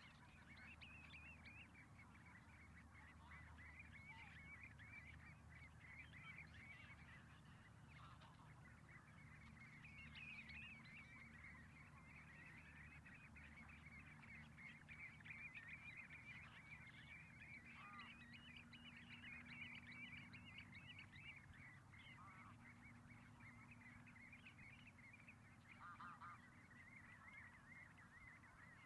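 Faint chatter of a distant flock of birds: many short calls overlapping without a break, over a low steady rumble of wind or surf.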